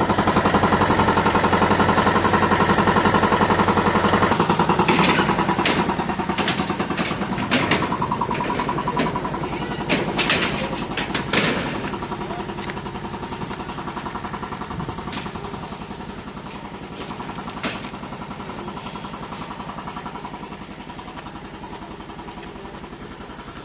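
A motor engine running steadily, which drops in level about four seconds in, with a run of sharp clicks and knocks between about five and twelve seconds.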